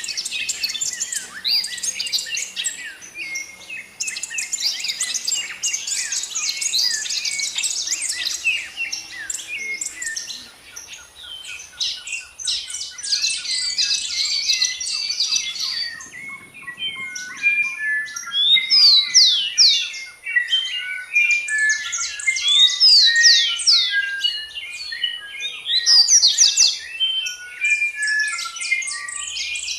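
Several birds chirping and singing at once: a dense chorus of quick, overlapping chirps and whistles, with a fast, even trill running through the middle.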